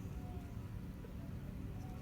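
Steady low outdoor background rumble with a few faint short high tones; no blast.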